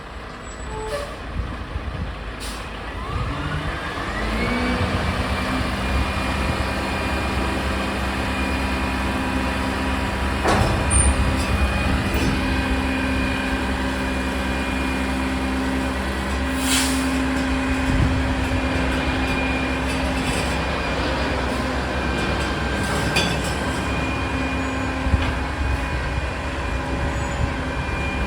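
Mack refuse truck's diesel engine rising in pitch a few seconds in, then running steadily at raised revs, with a couple of short air hisses.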